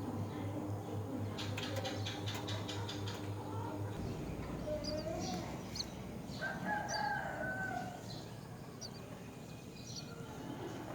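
Birds calling: a rapid run of clicks early on, then short high chirps and one drawn-out call of about a second and a half in the second half. A low pulsing hum runs underneath and stops abruptly about four seconds in.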